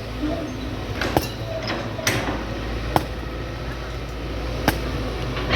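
Excavator engine running steadily with a low rumble, broken by four sharp knocks as it works scrap iron.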